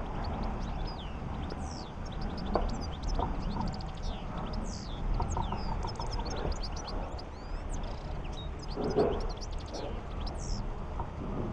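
Small birds chirping in the background: many short, high chirps throughout, over a steady low hum, with a few faint knocks.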